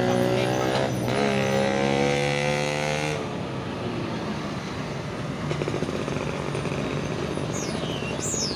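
Truck engine running under load as it passes, its pitch rising with a short break about a second in, then dropping away about three seconds in to steady traffic noise.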